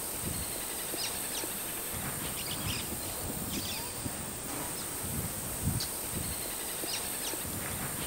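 Short, high bird chip calls, roughly one every second, over a steady high-pitched insect drone and a soft low rumble of wind.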